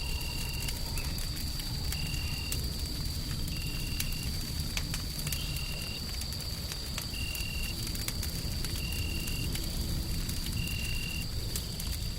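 Wood fire crackling with scattered sharp pops over a steady low rushing white-noise bed. A thin high whine runs steadily throughout, and a short high chirp repeats evenly about every second and three-quarters.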